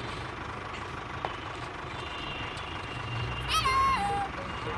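Steady vehicle engine noise with a low hum. Near the end comes a short high call that rises and then drops in pitch.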